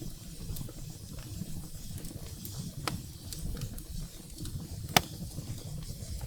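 Wood fire burning in a fireplace: a steady low rumble of flames with scattered crackles of burning firewood and sharp pops, the two loudest about three and five seconds in.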